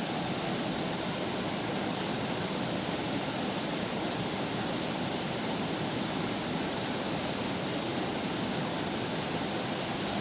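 River water flowing, a steady rushing with no breaks or changes.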